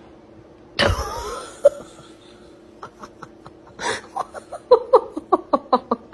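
A sudden loud cry about a second in, then a sharp breath, then a person laughing in quick short bursts, about four a second, over a faint steady hum.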